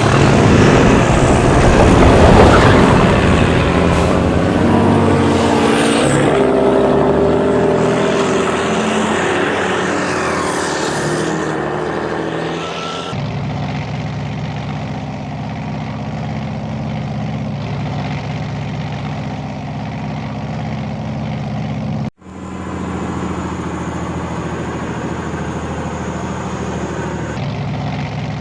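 Heavy truck engine: loud at first, winding down in pitch and fading over the first dozen seconds, then settling into a steady low running. It cuts out for an instant about two-thirds of the way through.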